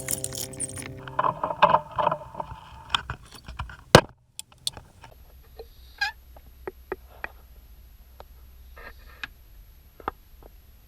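Scattered knocks and clicks of things being handled, the loudest a single hard knock about four seconds in, over a low hum, as music fades out at the start.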